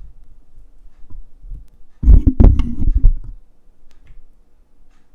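A short burst of loud thumps and clicks about two seconds in, lasting just over a second, like the microphone or recording gear being handled during setup.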